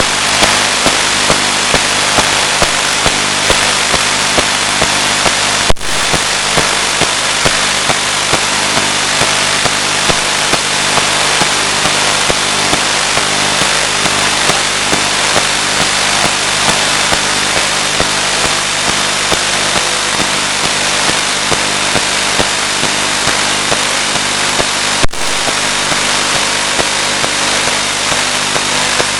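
Steady, loud static hiss from an analog video receiver's audio channel, with a faint low hum and small regular ticks running through it. The hiss briefly drops out twice.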